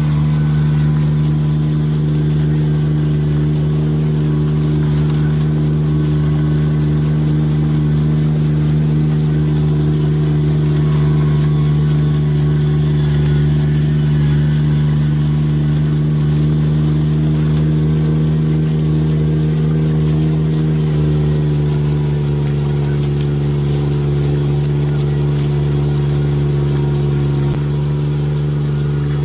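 Engine of a Kubota rice transplanter running steadily under load, its note shifting slightly about two-thirds of the way through.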